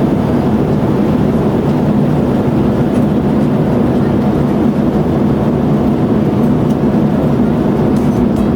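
Steady in-flight cabin noise inside a Boeing 787-9 airliner: engine and airflow noise with a low hum, unchanging throughout.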